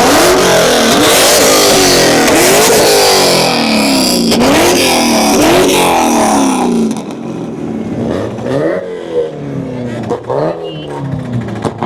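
A Nissan 240's engine revving hard again and again, its pitch sweeping up about once a second. A loud hissing noise rides over the revs for the first seven seconds. After that the revs are shorter and quieter, with a few sharp cracks.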